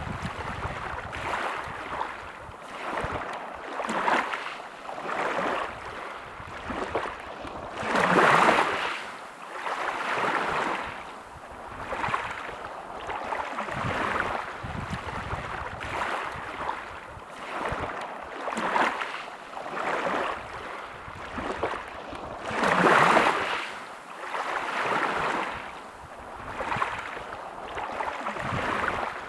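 Small sea waves washing onto a beach, a soft surge every second or two, with two bigger waves breaking about a third of the way in and again near the end.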